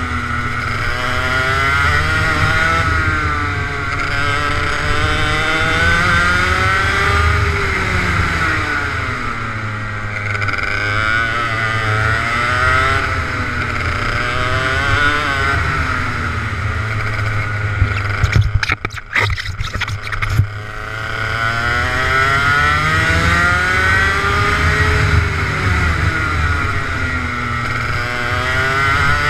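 Kart engine running hard on track, its pitch rising and falling in long sweeps as it accelerates and backs off through the corners. About two-thirds of the way through, a couple of seconds of crackles and dropouts break up the sound.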